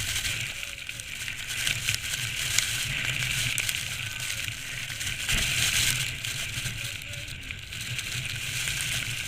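Blizzard wind gusting hard across the microphone, a low buffeting rumble under a hiss of blowing snow, rising and easing in irregular gusts.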